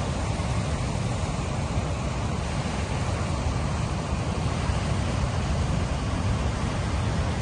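Sea waves at the shoreline making a steady, even roar that is deepest in the low rumble, with no single breaker standing out.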